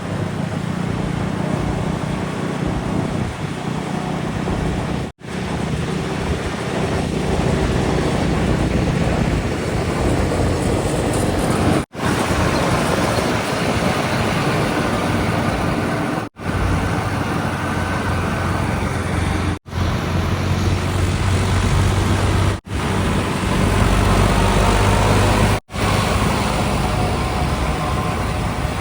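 Heavy diesel engines of earthmoving machinery running steadily, broken by several abrupt edit cuts, each a split-second dropout after which the engine note shifts.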